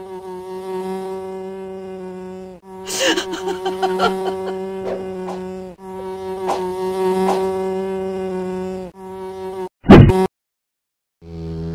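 Cartoon flying-insect buzz: a steady, droning buzz that breaks off briefly a few times, with a run of sharp clicks and hits about three seconds in. About ten seconds in a very loud short burst cuts it off, and after a moment's silence the buzz returns at a lower pitch.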